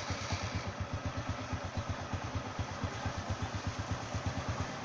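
Motorcycle engine idling steadily with an even, rapid low beat, shortly after being started.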